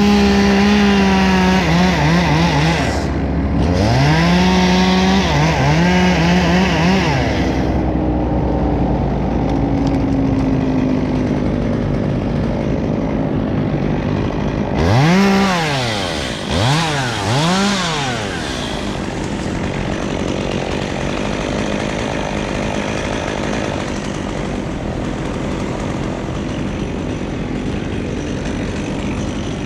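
Two-stroke chainsaw at full throttle, its revs dipping and recovering for the first seven seconds or so before it drops off. About halfway through it is revved up three times in quick succession, and a steady, lower engine drone carries on after.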